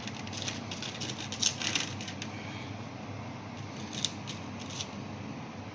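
Light clicks and taps of food and utensils being handled in a tagine dish, a small cluster about one and a half seconds in and a few single ticks later, over a steady low background hum.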